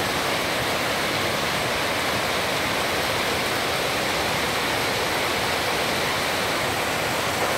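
Waterfall in spate after rain: a steady, even rush of heavy falling water.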